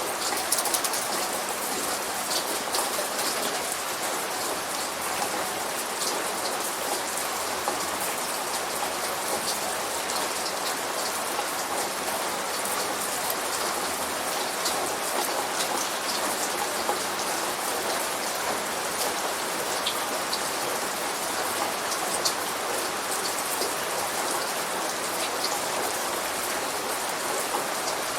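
Steady light rain, a dense patter of small drops falling on a surface, with no thunder.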